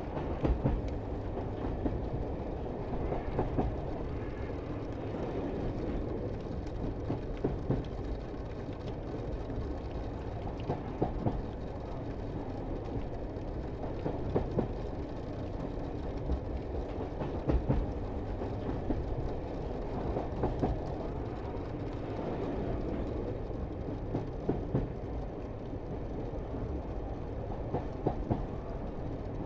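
Pikes Peak cog (rack) railway train running, a steady rumble with irregular clanks and knocks every few seconds.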